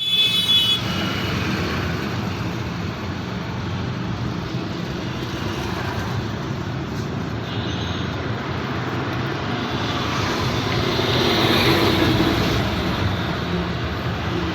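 Steady road traffic at a busy roundabout: engines running and tyres on the road, with a brief high-pitched tone at the very start and a louder vehicle passing close around the last third.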